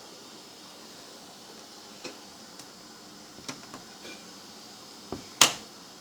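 A few short, sharp clicks and knocks over a steady faint hiss, the loudest a single sharp crack near the end.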